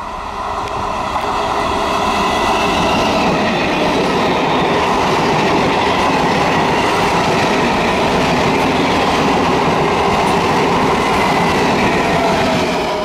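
Electric multiple unit (EMU) suburban train running past on the track. Its noise grows over the first two seconds, then holds steady and loud.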